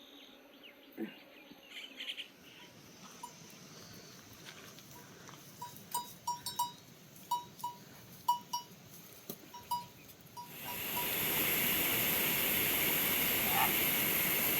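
Small animal bell, such as a goat or cow bell, clinking irregularly at one pitch a dozen or so times over quiet surroundings. About ten seconds in, a steady, louder hiss cuts in abruptly and takes over.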